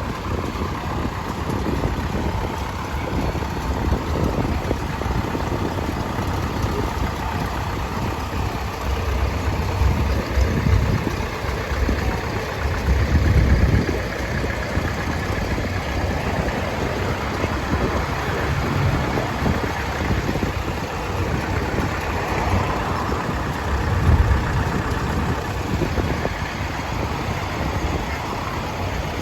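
Vintage tractor engine running steadily, with an uneven low rumble that swells and fades.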